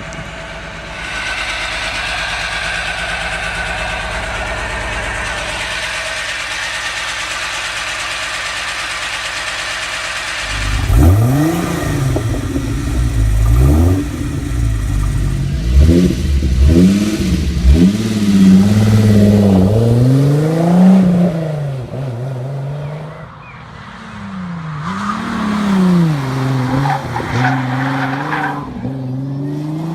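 Car engine running steadily, then revved again and again from about ten seconds in, its pitch climbing and falling with each blip, and ending on a slow rising rev.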